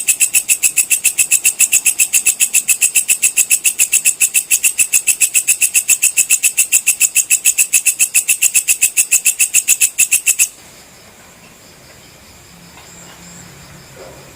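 Walang kecek (belalang kecek) insect calling in a fast, even train of loud, high, sharp chirps that stops abruptly about ten seconds in. After that only a faint background of softer chirping remains.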